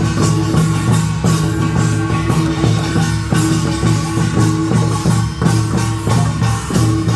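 Korean nongak (pungmul) farmers' band playing: drums and gongs beat rapid repeated strokes over steady ringing gong tones.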